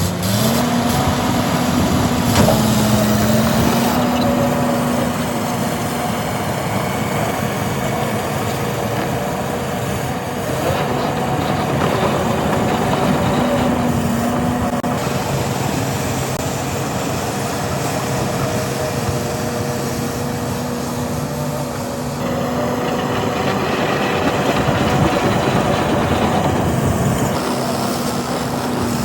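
Diesel engines of heavy earthmoving machines running steadily at a landfill dig, with the engine note rising and dipping several times as the machines work under load.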